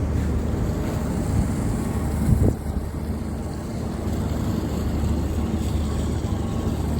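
Boat engine running steadily with a low drone, with wind on the microphone. A brief louder sound with a short rise in pitch comes about two and a half seconds in.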